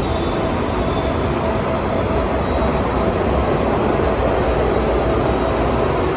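Train running past at close range: a loud, steady rumble of wheels on the rails with thin steady squealing tones above it.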